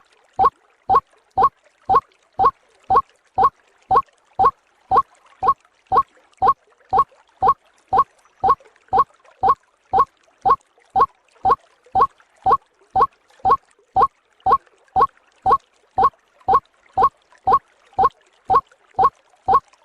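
White-breasted waterhen (ruak-ruak) calling: a short, slightly rising note repeated evenly about twice a second, without a break.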